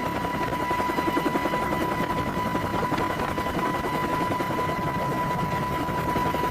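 Helicopter in flight, an AH-64 Apache: fast, even rotor chop over a steady high turbine whine.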